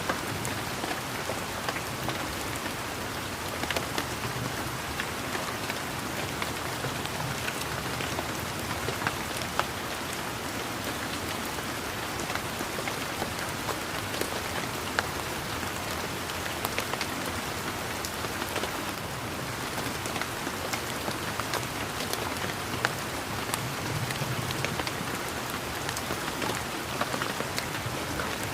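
Steady rain falling on a garden, an even hiss with many individual raindrop ticks and taps scattered through it.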